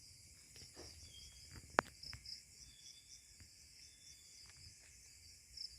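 Crickets and other night insects chirring steadily in a high, pulsing chorus. A single sharp click a little under two seconds in.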